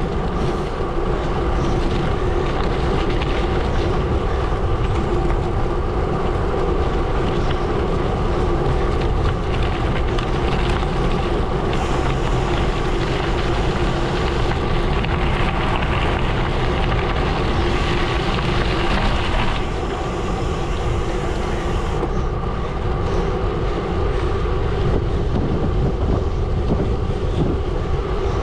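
Gravel bike rolling fast on a gravel road: tyres rumbling and crackling over loose stones, with a steady hum.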